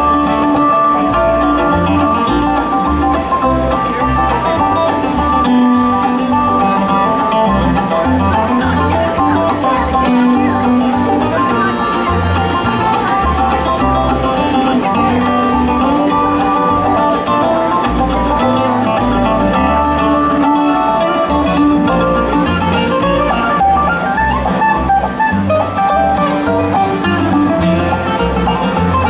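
A live bluegrass band plays an instrumental break of a country-bluegrass song, with plucked strings over a steady low beat.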